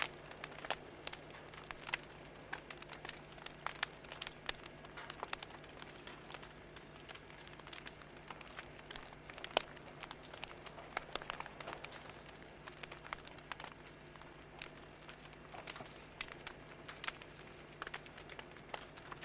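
Fire crackling: irregular sharp pops and snaps, several a second, over a faint steady low hum.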